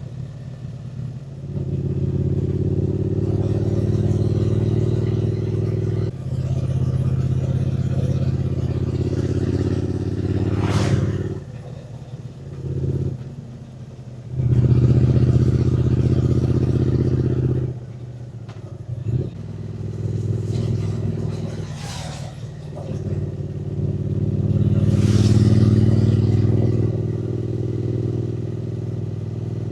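Triumph Speed Twin 900's parallel-twin engine heard from the moving bike, pulling under throttle in spells of a few seconds with short drops off the throttle in between. Three brief rushing sounds cut across it.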